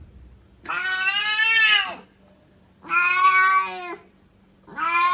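A cat meowing: three long meows, each about a second, the third starting near the end.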